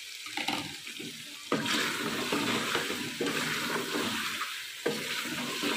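Beef karahi gravy sizzling as it is fried down in an open pressure cooker, with freshly added ginger and green chillies, while a spatula stirs and scrapes through it. The sizzle gets louder about one and a half seconds in.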